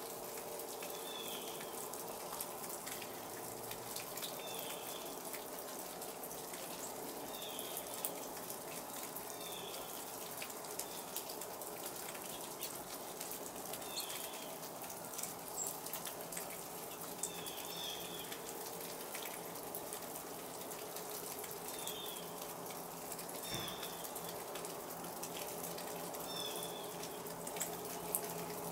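Sleet (ice pellets) falling steadily, a dense fine ticking and pattering, with a small bird's short chirp repeating about a dozen times, every two to three seconds. A faint steady hum runs underneath.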